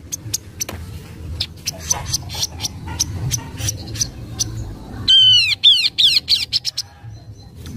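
Kaso-kaso bird (tepus glagah) calling: a stream of sharp chips, broken about five seconds in by a quick run of about five falling whistled notes. It is a song used as a lure call to draw a response from other kaso-kaso birds.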